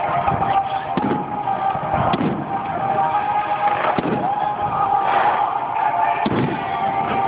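Fireworks going off, several bangs a second or two apart, over music with long held notes.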